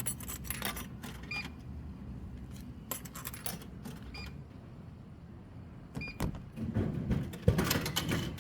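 Coins clinking into a vending machine, in separate short metallic clinks over a low steady hum, with a heavier thud near the end.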